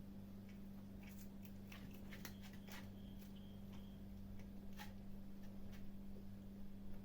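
Kittens chewing and crunching food, with faint irregular crunching clicks that are busiest in the middle, over a steady low hum.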